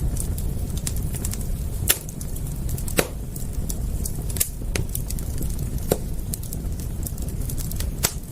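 Wood fire crackling: scattered small ticks and several sharp, louder pops over a steady low rumble.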